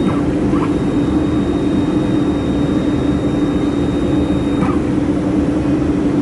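Laser welding machine running with a steady hum, and a thin high whine that cuts off about three-quarters of the way through.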